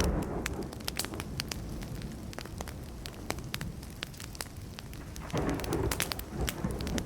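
Wood campfire crackling with frequent sharp pops, over a low thunder rumble that is strong at first and swells again about five seconds in.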